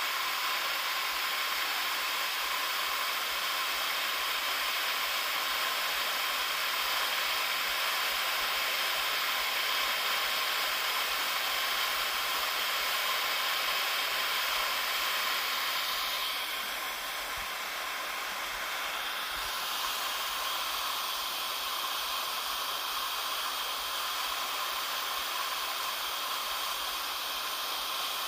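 Waterfall: a steady rush of falling water, dipping slightly in level a little past the middle.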